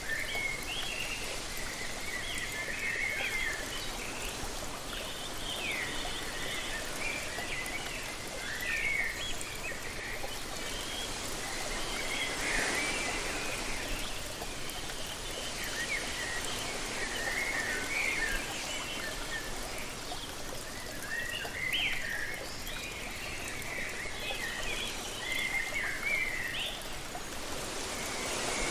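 Steady rush of a waterfall, with many short bird chirps and calls over it.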